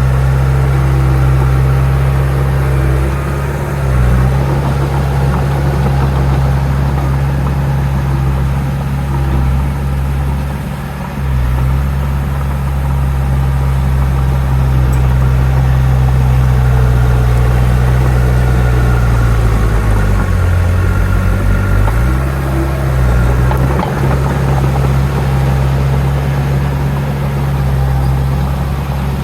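Heavy earthmoving machine's diesel engine running steadily, with its note dipping briefly a few times.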